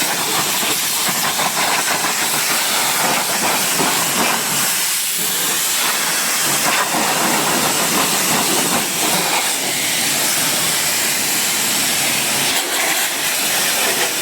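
Pressure washer spraying with a steady, loud hiss.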